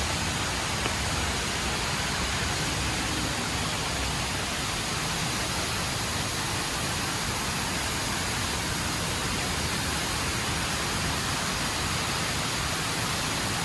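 HSBC Rain Vortex indoor waterfall: a steady, even rush of falling water.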